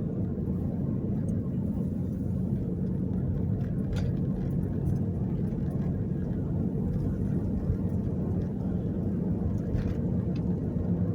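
Steady low rumble of a car driving, heard from inside the cabin: engine and tyre noise with a faint tick now and then.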